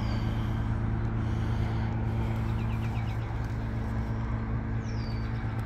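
Vehicle engine idling with a steady low hum, and a few short, high, falling chirps over it.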